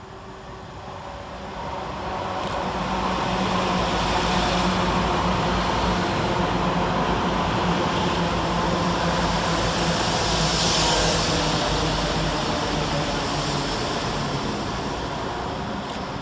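Two coupled Class 172 Turbostar diesel multiple units passing through the station: the engines' steady low hum and the rush of wheels on rail build over the first few seconds, hold, then fade near the end.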